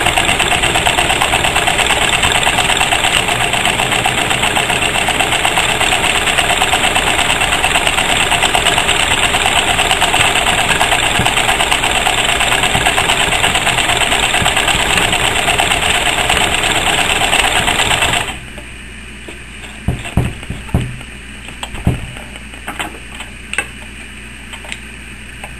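Sewing machine running at speed, its needle stitching in a fast, even rhythm, then stopping about eighteen seconds in; a few light knocks of handling follow.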